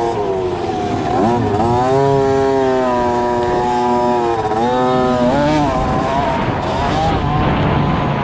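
Dirt bike engine running at high revs, its pitch dropping sharply and climbing back twice, about a second in and again a little before the middle, as the throttle is rolled off and on.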